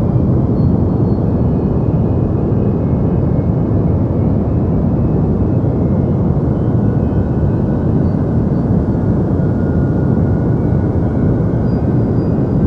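Deep white noise: a steady, unbroken rumbling hiss, heavy in the low end with the highs rolled off, holding the same level throughout.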